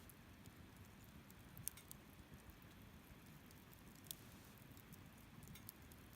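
Wood campfire crackling faintly, with a few sharp, isolated pops over a low, steady background.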